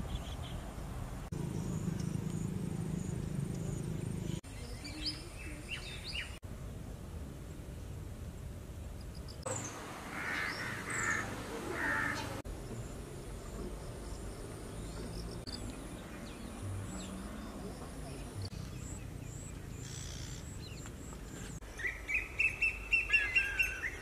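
Outdoor ambience that changes abruptly every few seconds, with birds chirping and calling throughout, and a run of loud, quick repeated bird calls near the end.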